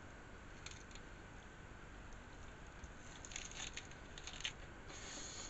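Faint crisp crunching and crackling as a person bites into and chews a taco, with a cluster of crunches about three seconds in and again near the end.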